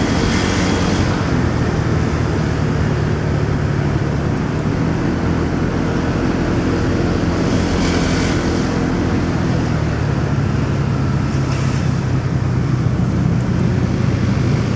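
Motorcycle engine running steadily while riding in city traffic, with continuous road and traffic noise around it. A few brief hissing swells rise above it, near the start, about eight seconds in and again a few seconds later.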